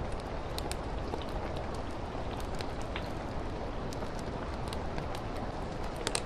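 Steady rain falling against a window, with a fireplace crackling in scattered sharp ticks and a small cluster of them near the end.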